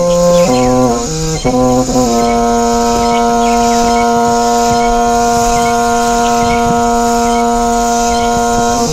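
A brass-like instrument plays a few short notes, then holds one long, steady note for about seven seconds, cutting off just before the end.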